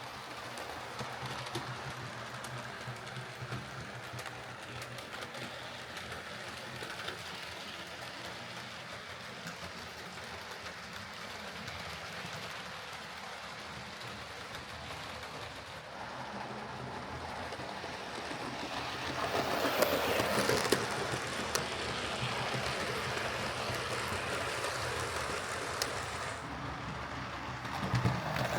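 Hornby OO gauge A4 model steam locomotive running along the layout track: the small electric motor and gears hum and the wheels click over the rails, getting louder as it passes close, loudest about twenty seconds in.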